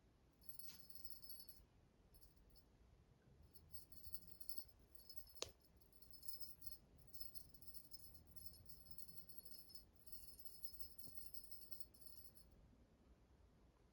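A small bell jingling faintly in short bursts, stop and start, with a single sharp click about five seconds in.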